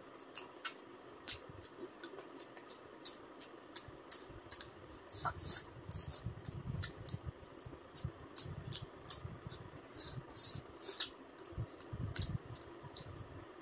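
A person eating close to the microphone: wet smacking and clicking mouth sounds from chewing, irregular and several a second, with soft, low, muffled chomps that grow denser from about five seconds in.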